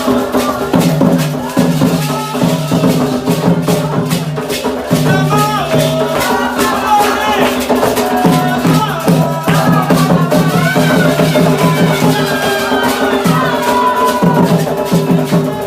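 Candomblé ritual music: hand drums and rattles played in a fast, steady rhythm, with voices singing over them.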